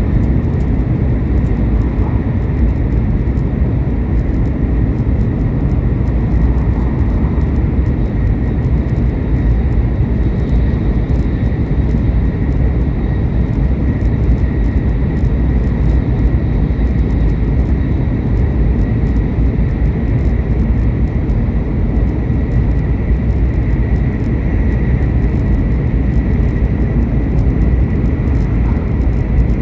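Steady running noise inside a Shinkansen bullet train at speed: a constant low rumble with a faint steady high whine over it.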